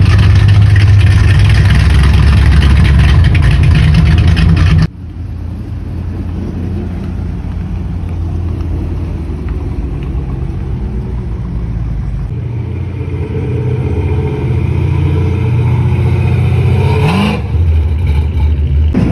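Loud car engine running with a deep, steady exhaust note, then, after an abrupt cut about five seconds in, a quieter engine rumble that slowly grows louder, with a short rev near the end.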